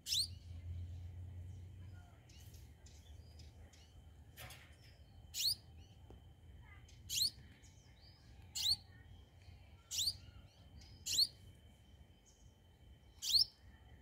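Sunbird giving sharp, high single chirps, seven in all. The first comes at the start, then after a gap of about five seconds they repeat every one to two seconds.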